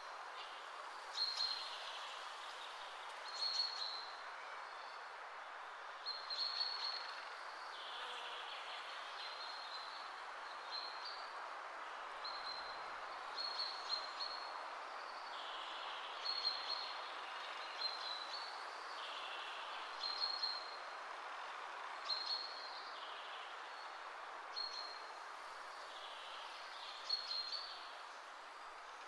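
Short high bird chirps repeating about every two seconds over a steady, even background hiss.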